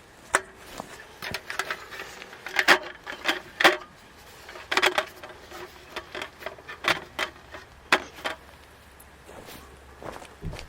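An irregular series of knocks and clatters, some with a brief ringing tone, as of hard objects being handled and set down.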